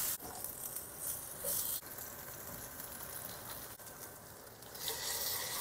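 Chicken and peanuts stir-frying in a wok: a faint sizzle with the rustle of ingredients being tossed, swelling a little about a second and a half in and again near the end.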